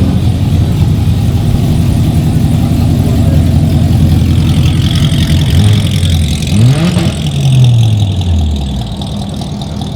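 Car engine idling loudly, then revved once about two-thirds of the way through, the pitch climbing quickly and falling back to idle.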